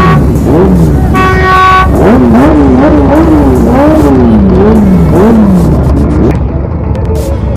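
Engines revving up and down again and again, the pitch rising and falling about every half second. A short steady tone sounds about a second in.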